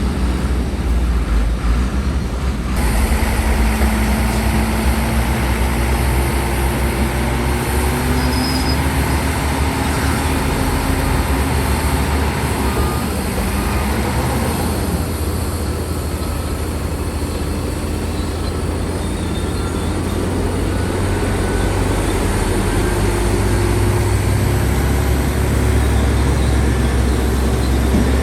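Heavy diesel earthmoving machinery running steadily, with a deep rumble and a few faint squealing tones over it.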